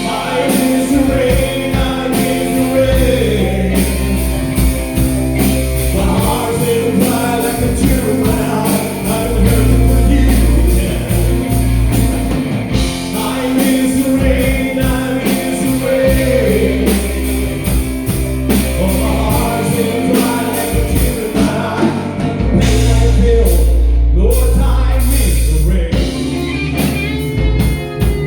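Rock song with a singer over a full band: sustained bass, guitar and drums.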